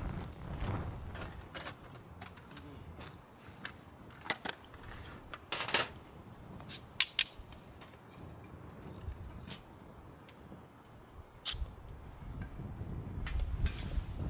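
Irregular sharp clicks and snaps, a few of them louder cracks, over a faint low rumble.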